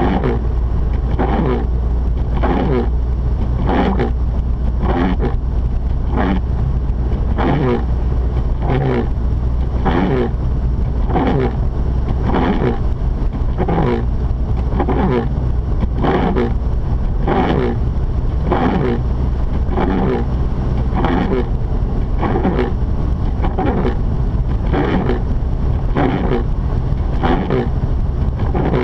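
Inside a Mazda RX-8's cabin: a steady low rumble from the twin-rotor rotary engine and tyres, with windshield wipers swishing back and forth in an even rhythm, about three strokes every two seconds.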